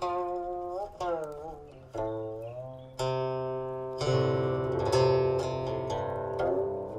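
Guqin, the Chinese seven-string zither, being played: single plucked notes with sliding pitch bends, then fuller, louder chords from about three seconds in.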